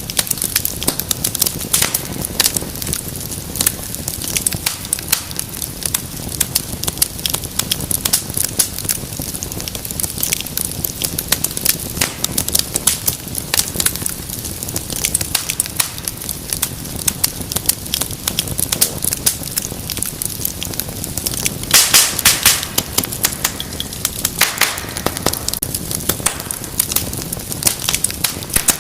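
Wood fire crackling and popping continuously, with a low steady rumble of flames beneath many sharp snaps; a louder cluster of pops comes about 22 seconds in, and another shortly after.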